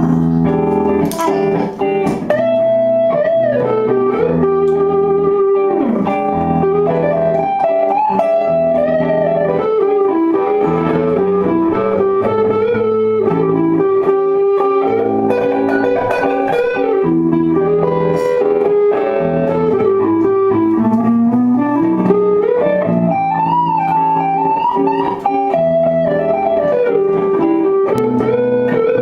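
Guitar-led music played live: a lead melody that holds notes and slides smoothly up and down between them over steady chords.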